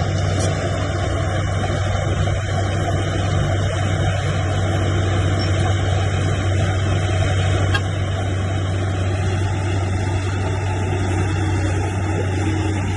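Heavy diesel engine of earthmoving machinery running steadily under a constant load, with a strong low hum.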